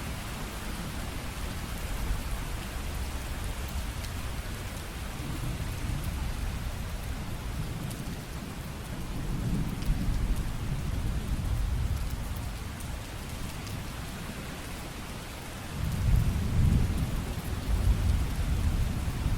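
Steady rain falling, with thunder rumbling low in the background: one roll swells about halfway through, and a louder rumble of thunder begins near the end.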